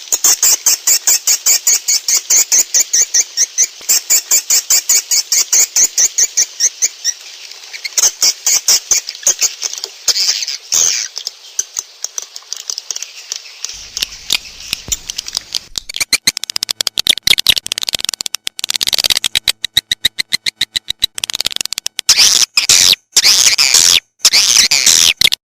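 Swiftlet lure recording: rapid, evenly repeated high chirps from edible-nest swiftlets, about five or six a second. About halfway through it turns into a denser, rougher twittering. This is the kind of call played from speakers in swiftlet houses to draw birds in to roost and nest.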